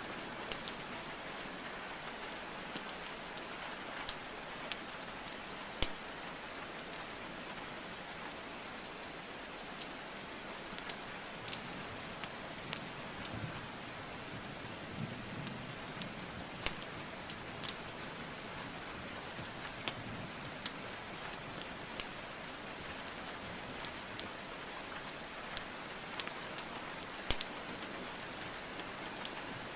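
Steady rainfall hiss mixed with the irregular sharp pops and crackles of burning wood logs in a fireplace.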